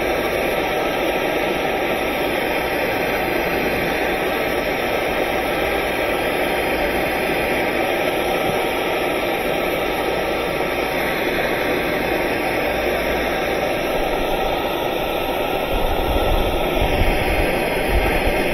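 Steady rushing noise of a heating tool melting 3M ScotchKote hot-melt patch compound into a hole in a plastic washer tub. A few low knocks come near the end.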